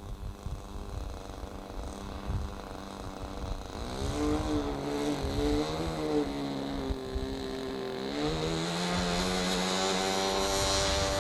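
Model airplane engine running in flight, its pitch rising about four seconds in, wavering, then rising and getting louder again near the end. Wind rumbles on the microphone underneath.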